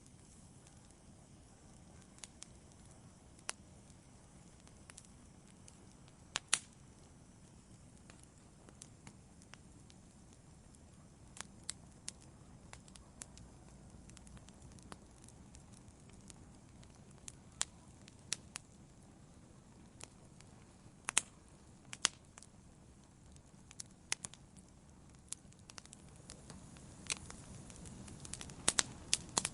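Wood fire burning gently: a low steady hiss with sharp, irregular crackles and pops, coming in a quicker cluster near the end.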